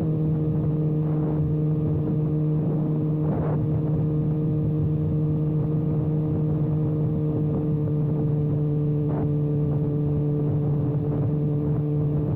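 Kawasaki ZX-6R's inline-four engine running at steady revs through an exhaust with the silencer canister removed, a constant, unchanging drone.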